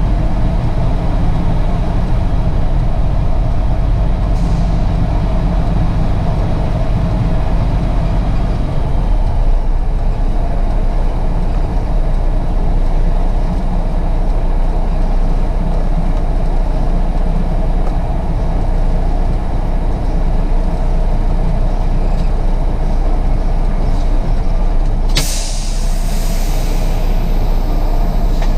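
Diesel truck engine running steadily, easing a little about a third of the way through. Near the end comes a sudden sharp hiss of air brakes, lasting a few seconds.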